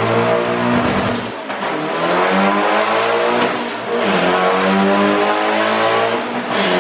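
Turbocharged engine of a 1989 Nissan 240SX revving under load on a chassis dyno. Its pitch climbs and drops back about three times.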